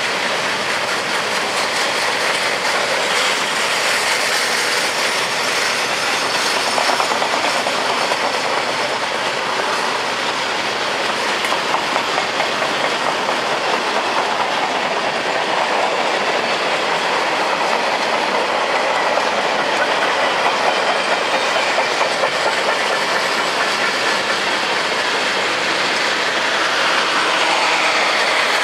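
Freight train cars rolling past, a steady, loud rolling noise of steel wheels on the rails.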